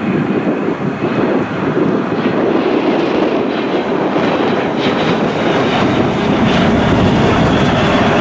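Jet engine roar from a Hawker 800 business jet's twin turbofans on approach, a steady rushing noise that grows louder and deeper over the last couple of seconds.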